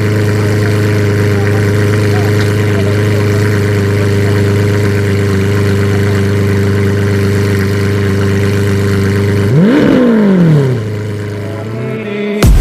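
Car engine idling steadily, then one quick rev blip near the end, rising and falling in pitch over about a second before the engine settles.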